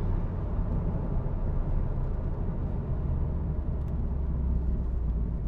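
Engine and road noise inside the cabin of a Mitsubishi Lancer Evolution Tommi Makinen, with its turbocharged 2.0-litre four-cylinder running while the car is driven along. The low rumble stays steady throughout, with no clear revving up or down.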